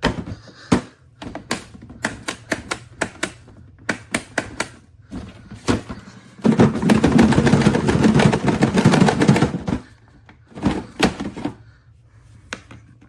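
Repeated hard plastic clicks and knocks as a DEWALT 20V MAX battery pack is worked in and out of a DEWALT DCV580H cordless shop vac that it does not seat in properly. About halfway through comes a loud, rough noise lasting about three seconds, followed by a few more clicks.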